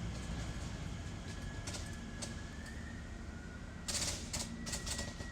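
Electric multiple-unit train, a TfL Rail Class 345, standing at the platform: a low rumble and a steady electrical whine. A brief run of sharp clattering knocks comes about four seconds in.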